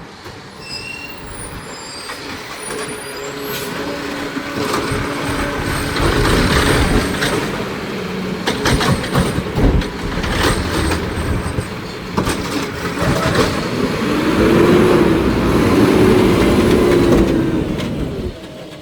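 Garbage truck at work: the engine speeds up, metal clanks and bangs come from about six seconds in, then a wavering hydraulic whine runs over the engine for a few seconds before the sound drops away near the end.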